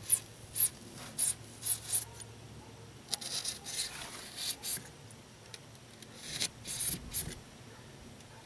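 Foam board being cut by hand with a blade: a run of short, sharp scratchy strokes, about one every half second at first, then a quicker cluster, then a few more near the end.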